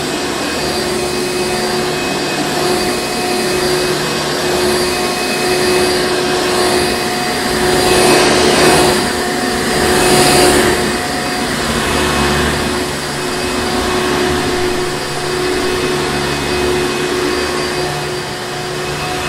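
Hoover Encore Supreme vacuum cleaner running steadily, a continuous rushing noise with a steady motor whine, swelling louder twice in the middle.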